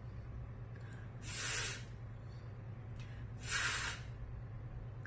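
A woman saying the phonics 'fff' sound, a breathy hiss with no voice behind it, twice, each about half a second long with a pause between.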